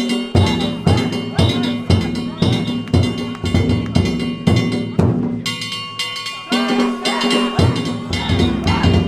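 Danjiri festival float music (narimono): a taiko drum and small kane hand gongs struck together in a steady beat, about two strokes a second, the gongs ringing on between strokes. The beat breaks off briefly about five seconds in and then starts again.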